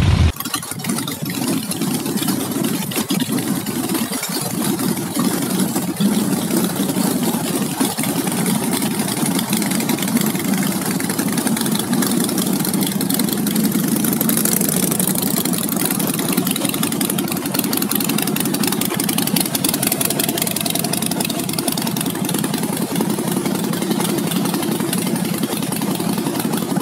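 Cruiser motorcycle engines running close by, a steady rapid throbbing that holds at a fairly even level.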